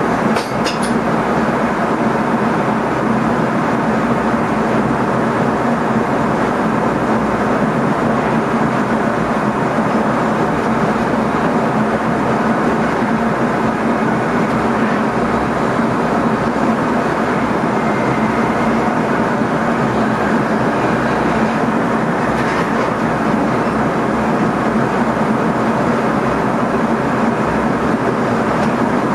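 Steady running noise inside the driver's cab of an NS ICM (Koploper) electric multiple unit on the move: wheels on the rails with a constant low hum. A few faint clicks come at the start and again about two-thirds of the way through.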